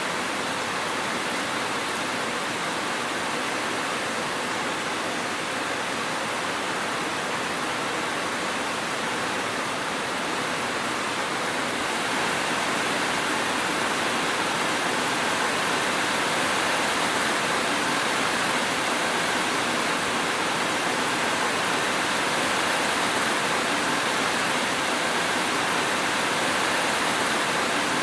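Steady heavy rain falling as a continuous even hiss, a little louder from about twelve seconds in.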